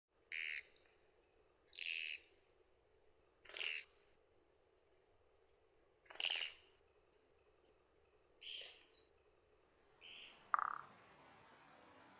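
Japanese pygmy woodpecker giving a harsh, buzzy call six times, about once every two seconds. Near the end a lower, shorter croaking note comes in.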